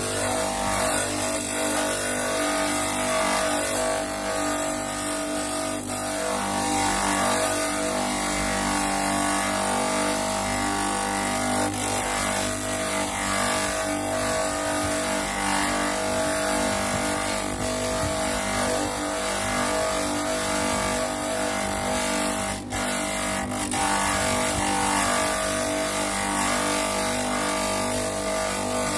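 Homemade electric bench grinder running steadily, with a piece of wood held against it to grind it round.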